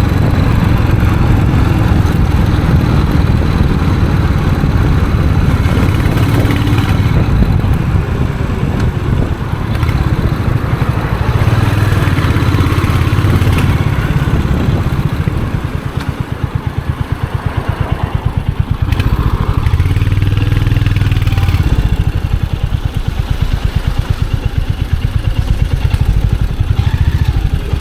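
Royal Enfield Hunter 350's single-cylinder engine and exhaust running under way, pulling and easing off with the traffic. Past the middle it drops back to a slower, evenly spaced thumping, then pulls up again.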